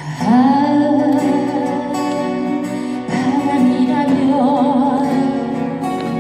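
Live band music: acoustic guitar accompaniment under a long held melody line with vibrato, in two phrases, the second beginning about three seconds in.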